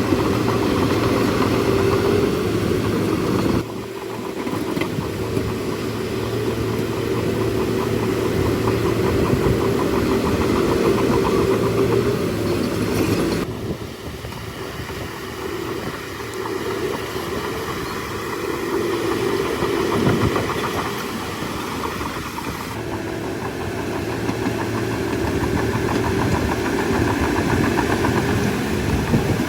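Heavy diesel engine of a bulldozer running steadily under load, with a fine rapid knocking in its note. The sound changes abruptly three times, as if cut between different machines or takes.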